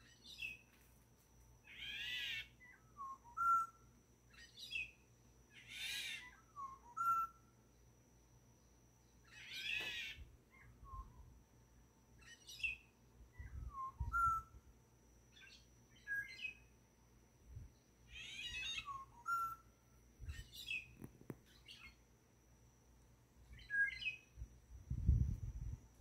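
A wild bird calling over and over from a wooded hillside: a loud, falling call about every four seconds, with shorter, lower whistled notes in between.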